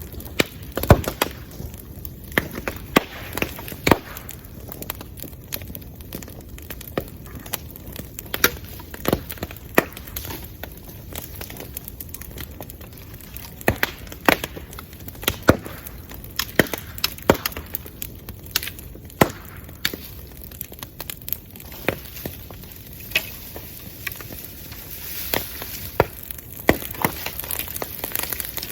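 Wood bonfire crackling, with irregular sharp pops and cracks over a low steady hiss.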